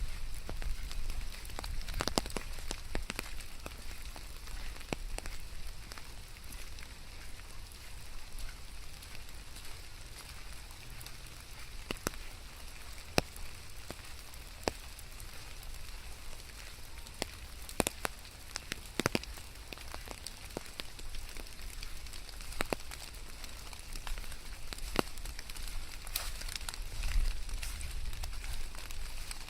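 Steady rain, with many scattered sharp drop ticks over a constant patter and a low rumble underneath.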